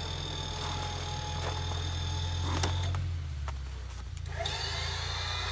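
Off-road 4x4 engine running steadily at low revs, with a few light knocks; the sound changes suddenly about four seconds in.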